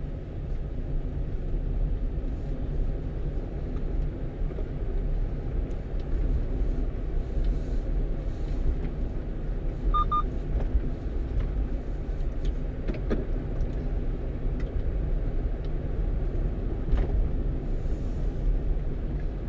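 Steady low rumble of a 1-ton truck's engine and tyres heard from inside the cab as it drives downhill, with a short electronic beep about ten seconds in.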